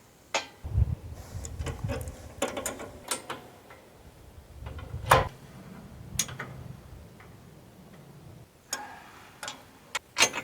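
Wrench clicking and metal knocks as bolts on a bandsaw mill's steel frame are loosened: scattered sharp clicks over a low handling rumble, the loudest knock about halfway through.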